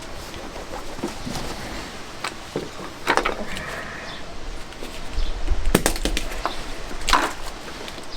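Tools being handled at the workbench: a few sharp knocks and clicks, with a brief ringing note after one of them.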